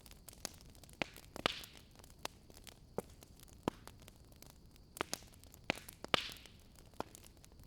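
Wood fire in a fireplace crackling: irregular sharp pops and snaps, with two brief hisses, one about a second and a half in and one about six seconds in.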